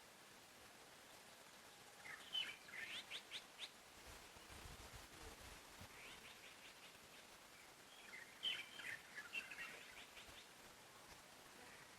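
Forest songbirds singing faintly: quick runs of chirps, louder about two seconds in and again about eight seconds in, with fainter runs between, over a soft steady hiss.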